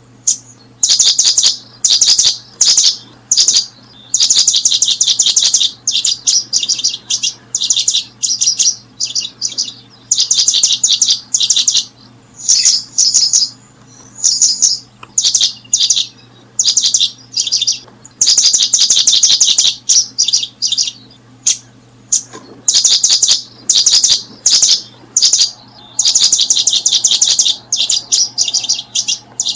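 Small bird chirping: high, thin calls in rapid trills, coming in bursts with short gaps, almost without pause. A faint steady low hum sits underneath.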